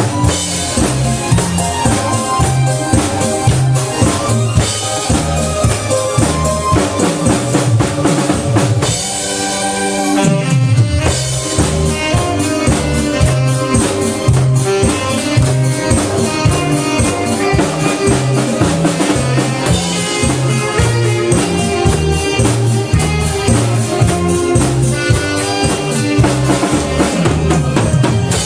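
Saxophone and drum kit playing a song together, the drums keeping a steady beat with kick, snare and rimshot. The bass drops out briefly about nine seconds in before the groove returns.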